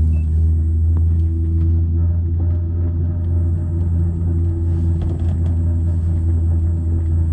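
Steady low rumble and drone of a moving passenger train, heard from inside the carriage, with a few even tones held over the rumble.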